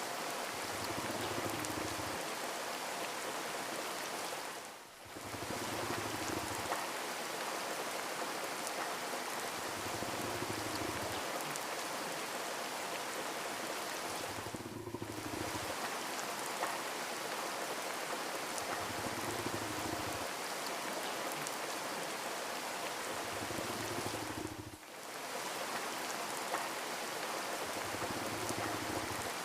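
Steady rain falling, an even hiss of drops that dips briefly about every ten seconds, with a faint low hum pulsing on and off every few seconds underneath.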